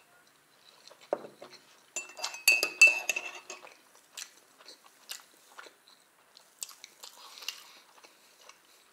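Chewing and mouth sounds from eating pancakes, with a metal spoon clinking against a ceramic coffee mug in a quick cluster about two seconds in.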